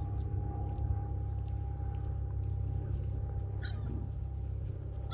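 Bullmastiff puppies at play giving two short, high-pitched yips, one near the end, over a steady low rumble.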